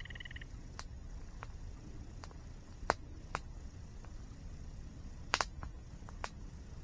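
Campfire crackling: wood snapping in irregular sharp pops, the loudest a double pop about five and a half seconds in. Under it runs a steady low rush of water.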